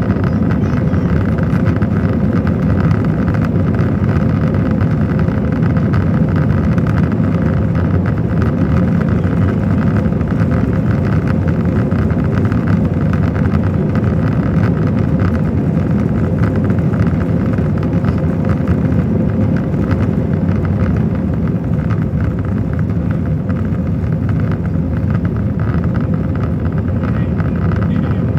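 Steady roar of engines and airflow heard inside the cabin of an Airbus A321 airliner, with a faint steady hum running through it.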